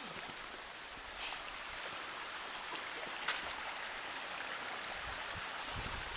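Steady rush of running water from a river, with a sharp tick about three seconds in.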